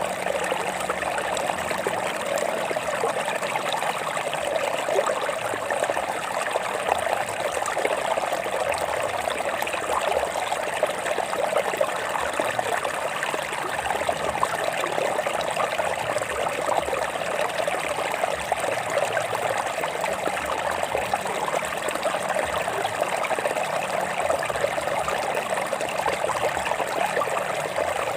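Stream water running and splashing over rocks: a steady, continuous babble that keeps an even level.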